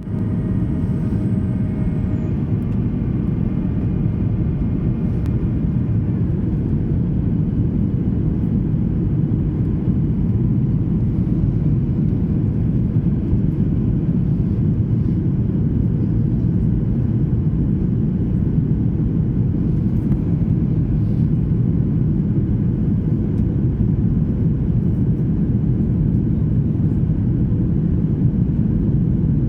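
Steady low rumble of a Boeing 737-800's CFM56-7B jet engines, with a few faint steady tones that die away in the first few seconds.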